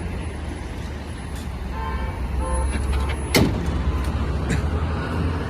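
A heavy truck's engine running with a steady low rumble. Brief beeps sound around two seconds in, and a single sharp knock comes a little past the middle.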